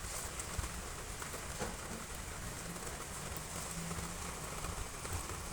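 Heavy rain falling steadily on roof tiles.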